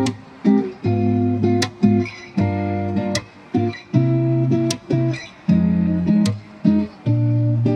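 Lofi background music of strummed acoustic guitar chords, played in short choppy blocks that start and stop abruptly, with a light tick about every second and a half.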